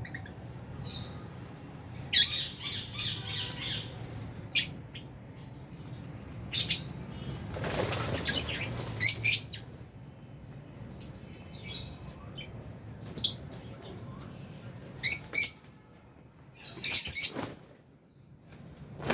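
Lovebirds giving sharp, high-pitched chirps and squawks, some singly and one as a quick run of notes, with a rush of wing flapping about eight seconds in.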